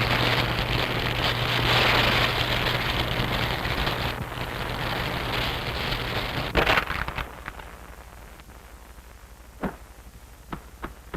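A model airplane's small gas engine runs with a steady drone under heavy hiss, then a loud crash comes about seven seconds in. After it, a few scattered crackles are heard as the wrecked model burns.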